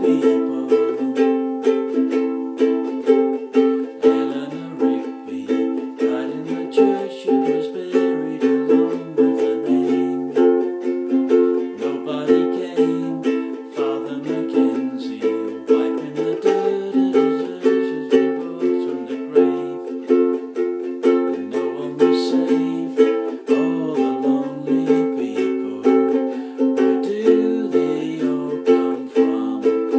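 Chords strummed on acoustic string instruments in a steady, even rhythm, with no singing.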